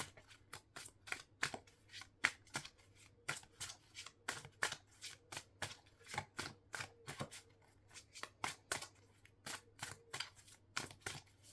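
Tarot cards being shuffled by hand: a quick, irregular run of sharp card clicks and snaps, several a second.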